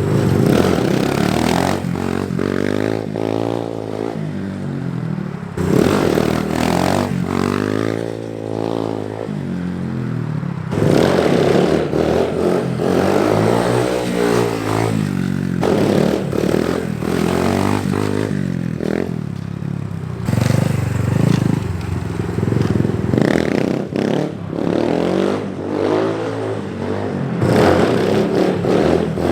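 SSR 150 dirt bike's four-stroke single-cylinder engine revving up and dropping back again and again as the rider accelerates in second gear for wheelie attempts.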